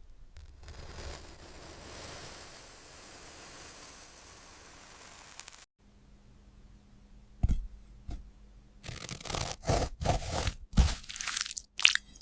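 Steady hiss of pink noise that cuts off suddenly about five and a half seconds in. After a short pause comes a run of irregular crunching, crackling and scraping handling sounds.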